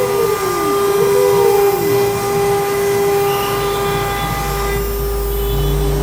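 CNC router cutting letters from aluminium composite panel: a steady high whine from the running spindle. Two short falling whines in the first two seconds, and a deep low hum that comes in about halfway through.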